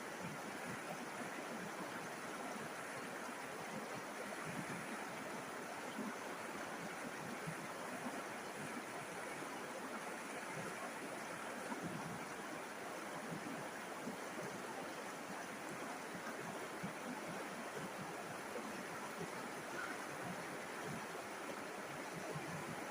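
A river flowing: a steady, even rush of moving water with small ripples of burbling in it.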